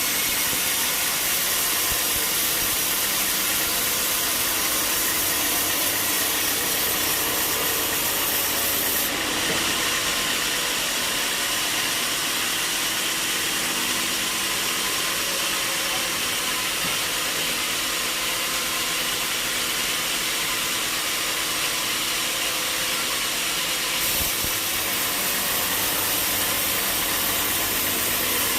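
Sawmill saw running and cutting through a log with a steady, hissing mechanical noise, the tone shifting slightly about a third of the way in and again near the end.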